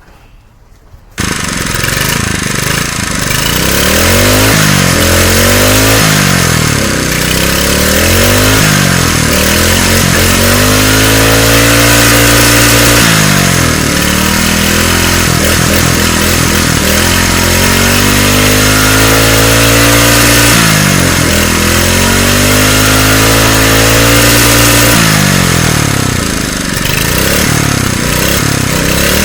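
A freshly repaired engine comes in suddenly about a second in and runs, revved up and back down several times, with its pitch rising and falling in long sweeps.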